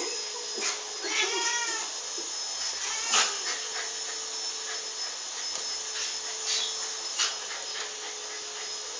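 A pet animal's wavering, whining cry about a second in, with sharp clicks or knocks scattered through.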